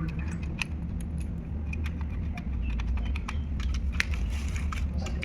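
Irregular small clicks and taps, several a second, over a steady low hum.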